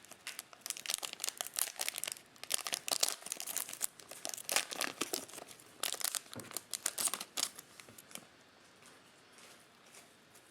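Foil wrapper of a trading card pack being torn open and crinkled, a dense run of crackles that dies down near the end.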